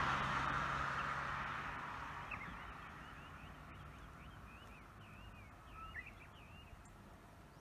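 A passing road vehicle fading into the distance, its engine hum and tyre noise dying away over the first few seconds. Then small birds twitter faintly with quick high chirps.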